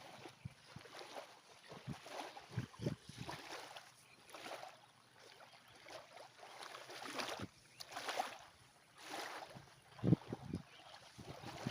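Shallow water lapping and splashing at the shore in irregular swells, with a few short low bumps of wind on the microphone.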